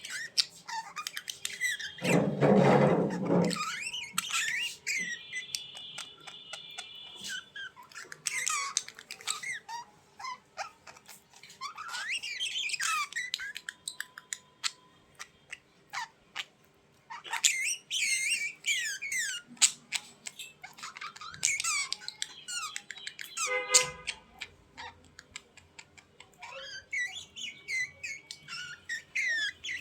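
Small birds chirping, warbling and squawking in a busy run of short calls, with a louder, harsh, low sound about two seconds in and another shortly before the end.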